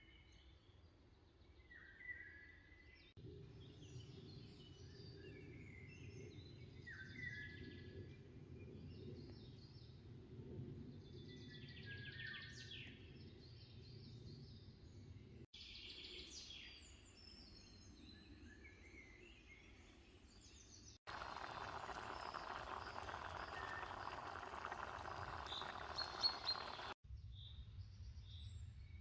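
Faint birdsong, with short chirps and whistles from several birds, over a low background that changes abruptly several times. Past the middle, a louder steady rushing noise lasts about six seconds under the birds.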